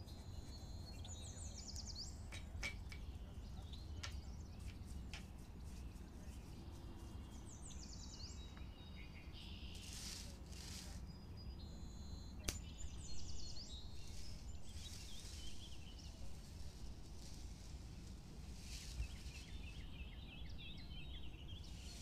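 Faint birdsong: short chirping phrases every few seconds over a low steady hum, with a few soft clicks.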